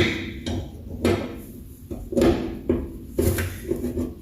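Impact wrench hammering in short bursts on a rusted rear shock absorber bolt whose nut keeps spinning, with the backing wrench rattling against the metal. It starts with a sharp hit, then several bursts follow about half a second apart.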